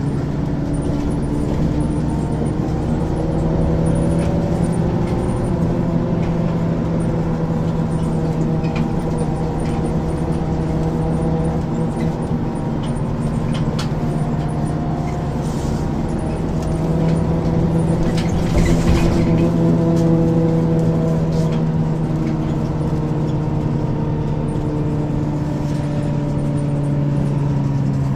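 Ikarus 435 articulated city bus with a ZF automatic gearbox running under way, its engine note slowly rising and falling in pitch, with a brief hiss a little past the middle.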